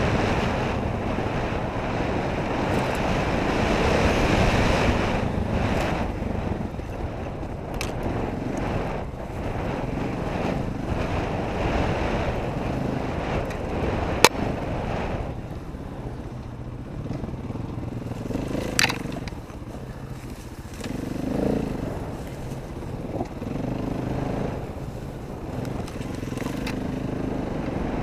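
Dirt bike engine running while riding, with wind noise on the helmet camera, louder in the first several seconds. Two sharp knocks come through, one about halfway and another a few seconds later.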